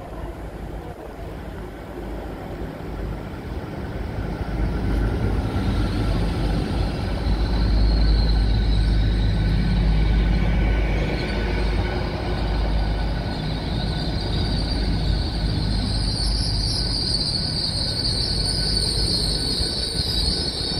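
An LNER Azuma train arriving at the platform. The rumble of the train grows as it runs past, and a high brake and wheel squeal sets in and gets strong in the last few seconds as it slows.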